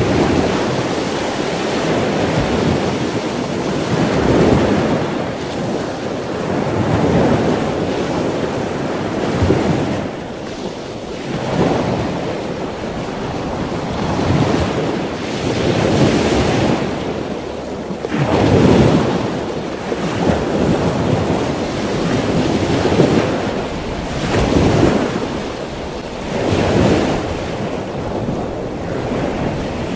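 Ocean surf: waves breaking and washing in, swelling and falling back every few seconds.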